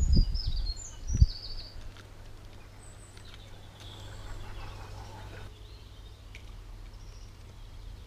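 Small garden songbirds singing, starting with a quick run of repeated high notes that ends about two seconds in, then only faint scattered calls. Near the start, two low thumps come as a tit hops and pecks on the wooden feeder tray close to the microphone.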